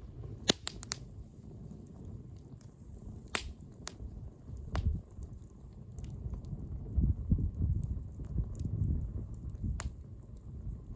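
Wood bonfire crackling, with sharp pops from the burning wood: three in quick succession about half a second in, then single pops scattered through the rest, over a low, steady rumble.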